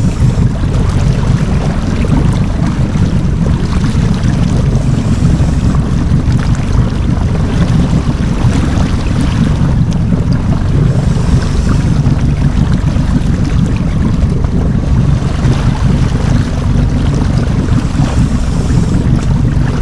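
Wind buffeting the microphone over the steady low rumble of a fishing boat's motor running, a loud, even noise with no break.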